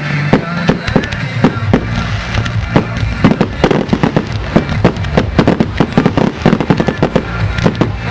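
Fireworks display: aerial shells and cakes bang in rapid succession, the barrage growing faster and denser from about three seconds in, with music playing underneath.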